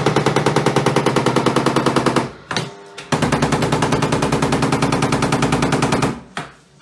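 Electric hammer drill running in two bursts of rapid, evenly spaced blows, each about three seconds long, with a short pause between them.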